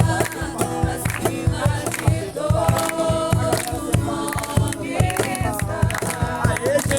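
A group singing a Portuguese-language worship song over music with a steady beat.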